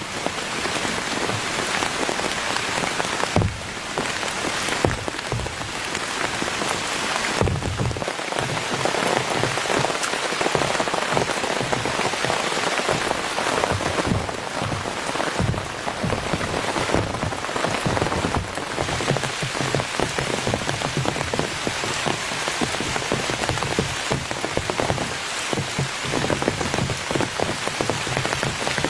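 Heavy rain falling steadily on a tent, with many individual drops striking close by.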